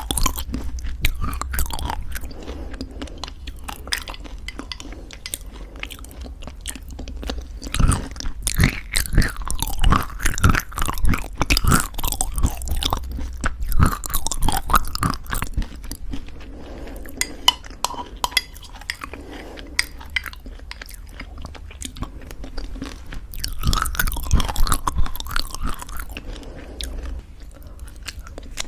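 Close-miked chewing of crunchy homemade granola mixed into thick yogurt: dense crisp crunches and crackles. The crunching grows louder in bouts about eight seconds in and again near the end.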